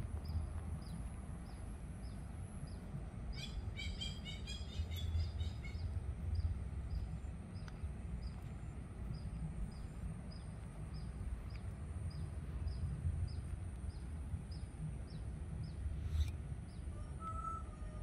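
Birds chirping in an aviary over a steady low rumble: a quick cluster of chirps a few seconds in, faint high ticks repeating about twice a second, and a short call near the end.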